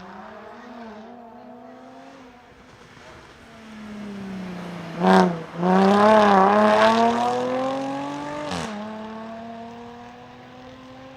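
Mini rally car's engine accelerating hard up the hill and passing close, building to its loudest in the middle and fading as it pulls away. About five seconds in there is a sharp crack and a brief break in the engine note, and near nine seconds the pitch drops suddenly on an upshift.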